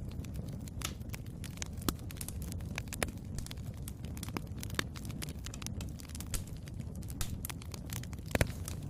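Wood fire burning in a fireplace: a steady low rumble of flame under frequent sharp crackles and pops, with a louder pop near the end.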